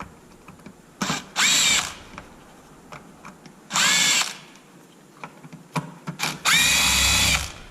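Cordless power driver with a hex bit run in three short bursts, its motor whining up in pitch and holding, as screws are driven out of an RC truck's plastic chassis plate.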